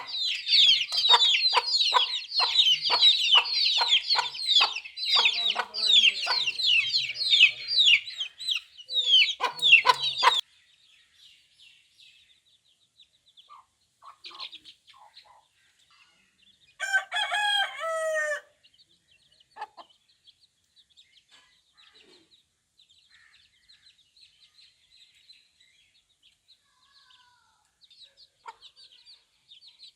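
Domestic chicks peeping: a dense chorus of quick, falling chirps for about ten seconds, mixed with lower, regular clucks. It stops abruptly. Then come scattered faint peeps and one louder drawn-out call partway through.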